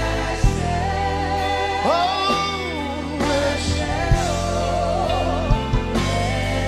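Live gospel worship music: a band holding sustained chords under a solo voice singing a wordless, bending run with vibrato, with a few sharp drum hits.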